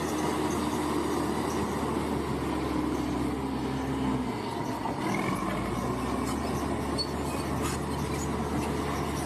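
Bulldozer's diesel engine running steadily, with metallic squealing and clatter from its crawler tracks. The low engine rumble drops away briefly about four seconds in and then returns.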